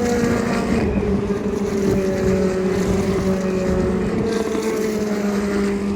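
A Dallara IL-15 Indy NXT car's turbocharged four-cylinder engine running on track, its note falling slowly and evenly.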